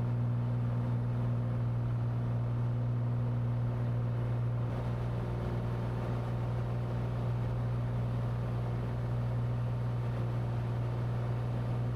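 Cessna 182T's six-cylinder Lycoming IO-540 engine and propeller at full takeoff power just after lift-off, a steady low drone during the initial climb.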